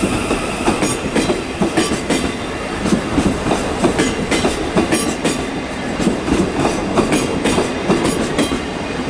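South Western Railway Class 707 electric multiple unit running along the platform, its wheels clacking repeatedly over rail joints.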